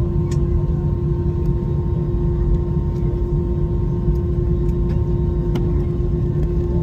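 Cabin noise inside an Airbus A320-family jet airliner: a steady low rumble with a constant hum, and a few faint clicks.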